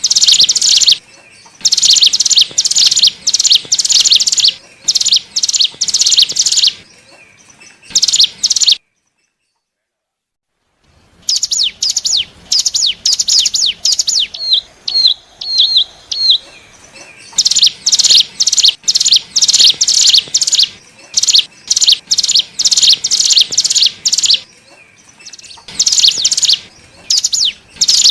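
Hill prinia (cigun, ciblek gunung) calling: a lure recording of rapid runs of sharp, high chirps in bursts of about a second, again and again. The calls stop dead for about two seconds around nine seconds in, then resume.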